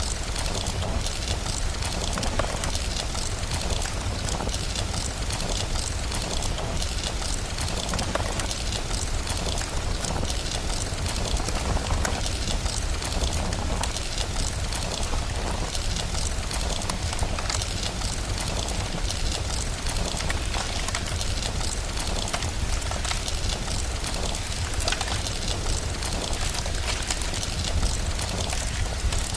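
Steady rain with a constant low rumble underneath and frequent faint crackles of a wood fire.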